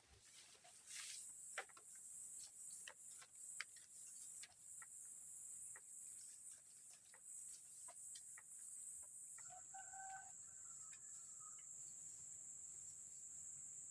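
Faint forest insect chorus, a steady high drone, with scattered light ticks. About ten seconds in comes a short pitched call from a bird, fowl-like, lasting under two seconds.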